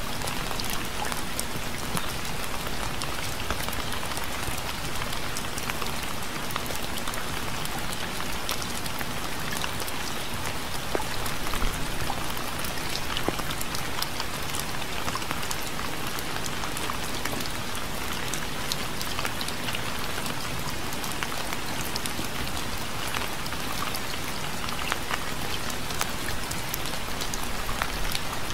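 Steady rain falling on a surface, with many individual drops ticking sharply against the continuous hiss.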